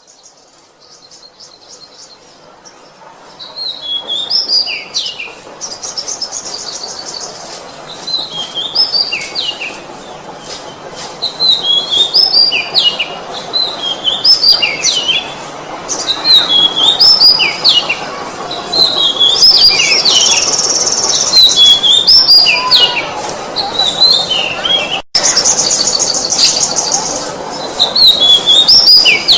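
Oriental magpie-robin singing: short loud phrases repeated every second or two, each with notes stepping down in pitch, mixed with high buzzy trills, over steady background noise.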